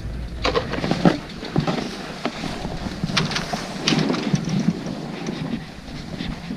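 Wind buffeting the microphone, with a series of short scraping and crunching sounds.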